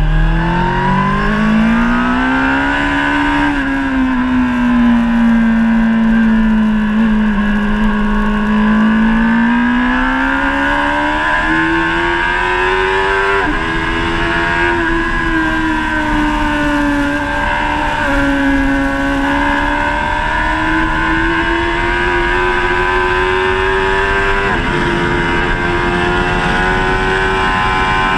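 Honda CBR1000RR SP Fireblade inline-four engine at track speed, heard on board. Its pitch climbs and falls as the throttle is opened and closed through the corners, and drops sharply twice, about halfway and near the end, at upshifts. A rush of wind runs underneath.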